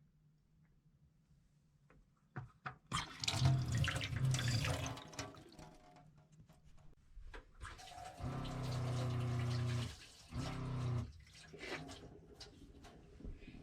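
Water running from a tap into a small sink in a few uneven spurts, starting a couple of seconds in. In the second half there is a steady hum for about two seconds, a short break, then another second of hum.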